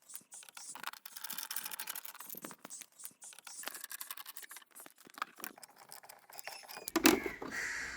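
Screws being undone from an electric water heater's casing: a long run of small, quick clicks and scratches as the screwdriver works, with a louder knock about seven seconds in.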